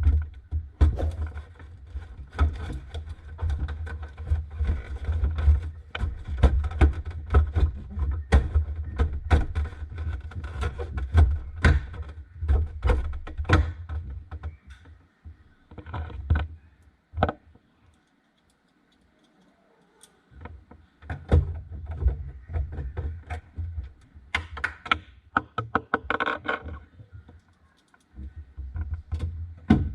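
Irregular clicks, taps and knocks of things being handled, over a low rumble, stopping for about two seconds a little past the middle.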